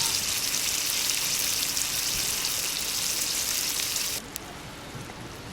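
Food sizzling as it cooks over a wood-fired fire pit: a dense, crackly hiss that cuts off suddenly about four seconds in, leaving a quieter hiss.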